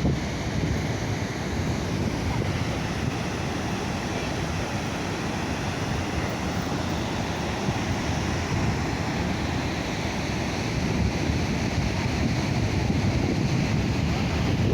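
Steady rush of water from Gira waterfall on the Ambica river, with wind buffeting the microphone.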